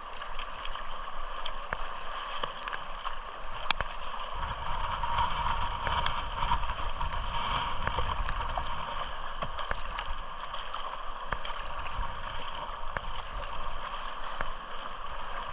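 Water gurgling and lapping against a moving kayak's hull, with scattered small knocks and clicks and a low rumble from about four seconds in.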